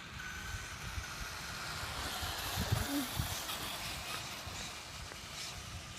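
Traxxas radio-controlled car running, its motor whine and tyre noise swelling to a peak about two to three seconds in and then easing off, over a low rumble.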